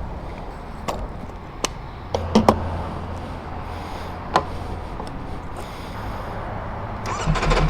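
Ducati Panigale V4R's V4 engine with an Akrapovic full exhaust idling with a low rumble, with several sharp clicks, then starting to rev up near the end.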